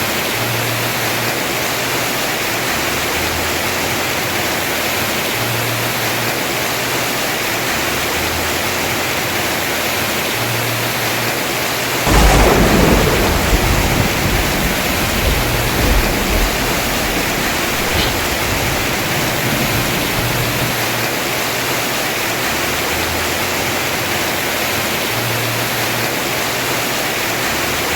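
Heavy rain falling steadily on a house roof. About twelve seconds in, a sudden clap of thunder breaks in and rumbles away over the next few seconds.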